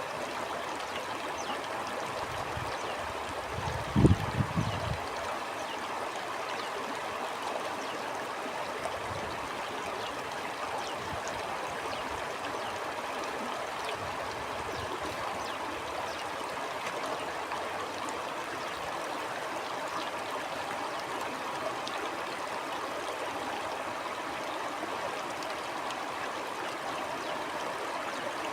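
Stream water flowing steadily, an even rushing and gurgling. About four seconds in there is a brief low thump, the loudest moment.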